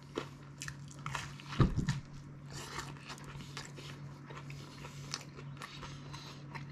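A person chewing a bite of crispy thin-crust pizza, with irregular crunches of the crust and wet mouth sounds, over a faint steady low hum.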